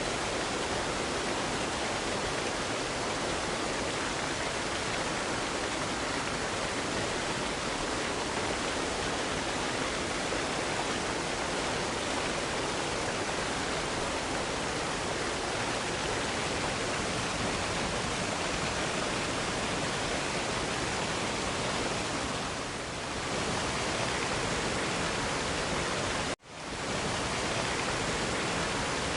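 Waterfall cascade rushing steadily. Near the end the sound cuts out for an instant and comes straight back.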